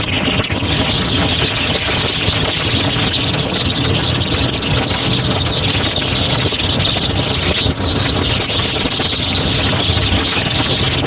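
Motorcycle running at a steady cruise, its engine mixed with wind and road noise.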